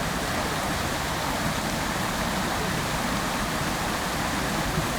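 Fountain water splashing steadily into its basin: an even, unbroken rush of falling water.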